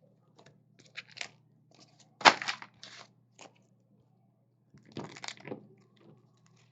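Crinkly packaging, such as plastic wrap or card-pack foil, crunched and handled in a few short bursts, the loudest a little over two seconds in, over a faint steady hum.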